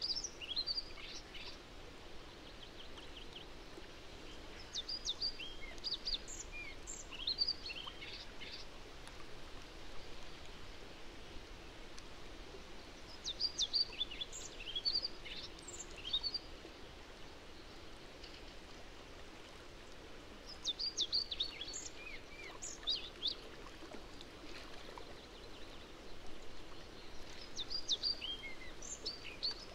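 A songbird singing short phrases of quick, high notes that run downward, one phrase about every seven seconds, over a steady low background hiss.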